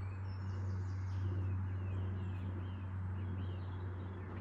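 Washing machine running with a steady low hum and a broad rushing noise, small birds chirping faintly over it.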